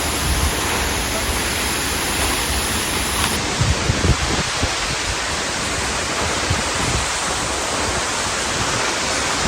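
A waterfall pouring, heard as a steady, dense rush of noise. A few brief low thumps come around four seconds in.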